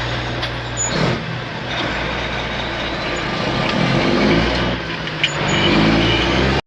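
Heavy truck's diesel engine running steadily, with a short rush of noise about a second in and a sharp click about five seconds in.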